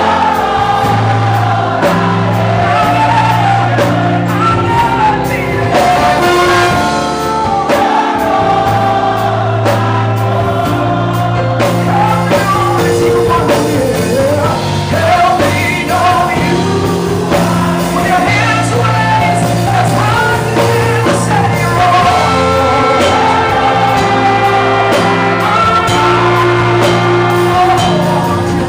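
Gospel worship music: singing voices over a band, with a bass line holding long notes that change every few seconds.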